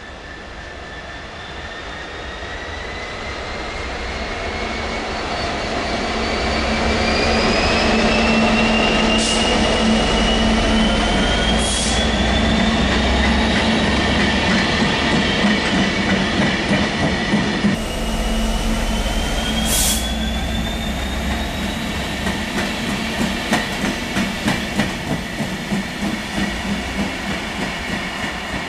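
Diesel freight locomotive approaching and passing, its engine hum under a high whine that rises steadily in pitch. It is followed by a regular clatter of wheels over rail joints as the flat wagons go by.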